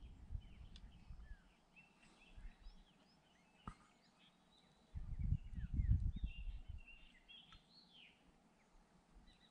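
Birds chirping, many short quick calls overlapping throughout. A low rumble, the loudest sound, comes about five seconds in and lasts around two seconds, and a single sharp click sounds just before four seconds.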